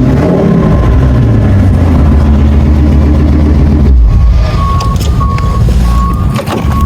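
Ford F-350's 6.8-litre V10 Triton engine running steadily and evenly now that its vacuum leak is fixed. From about four seconds in, a short high electronic beep repeats about twice a second over it.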